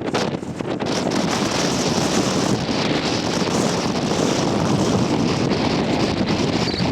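Strong wind buffeting the microphone, a dense rushing noise that dips briefly just after the start and then holds steady.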